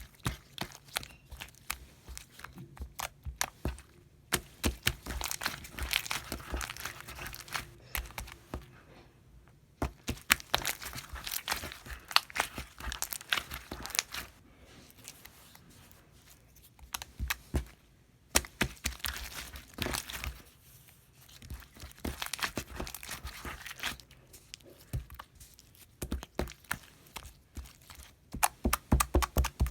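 Homemade slime being worked by hand, giving dense crackling and popping clicks that come in bursts of a few seconds with short pauses between them.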